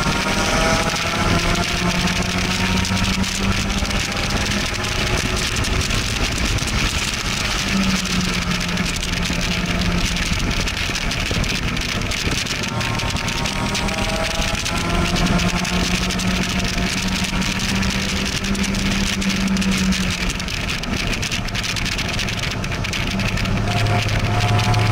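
Car engine pulling hard on a race track, heard from inside an open-top roadster with wind rushing through the cockpit. The engine note climbs at the start, again about halfway through, and near the end as the car accelerates out of corners.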